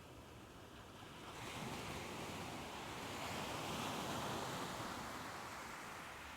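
Soft ocean waves: one wave washes in, its hiss swelling about a second and a half in, peaking near the middle and slowly receding.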